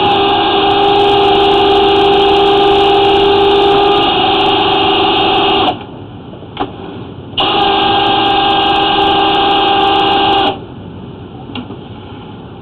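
Flex-shaft drain-cleaning machine running, spinning its chain cutter to shred tree roots in a clay sewer pipe. A steady whine is cut off about six seconds in, started again a second and a half later, and stopped again near the end.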